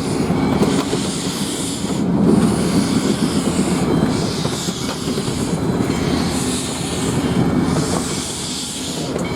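Steam locomotive US Sugar #148, a 4-6-2 Pacific, working a passenger train at low speed: slow, hissing exhaust beats over the steady rumble of the train.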